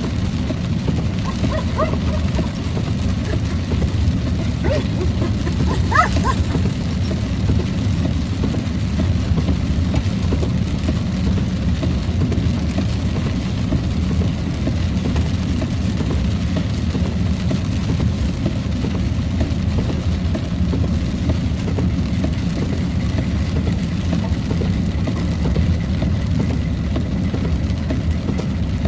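Steady low rumble of a car driving, heard from inside the closed cabin, with a few brief faint high whines in the first several seconds.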